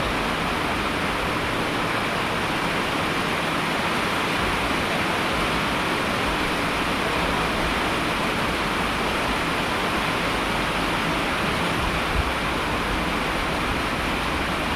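Steady, even hiss of heavily falling water, an unbroken rain-like wash with no distinct drops, knocks or other sounds.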